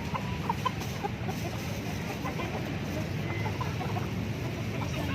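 Chickens clucking, many short clucks scattered and overlapping, over a steady low background rumble.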